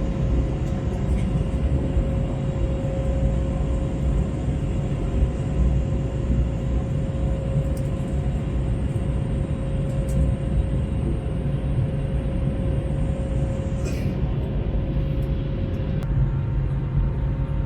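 Airbus A321neo passenger cabin noise from the Pratt & Whitney geared turbofans and airflow: a steady low rumble with a constant whine running through it.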